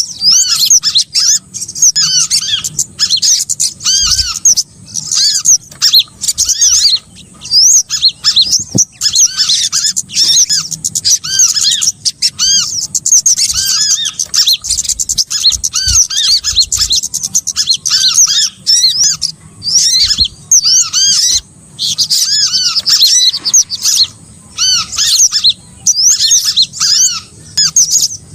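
Small songbirds in a busy, continuous chorus of high, short chirps and twitters, many quick notes overlapping with only brief pauses: a bird-trapping lure call.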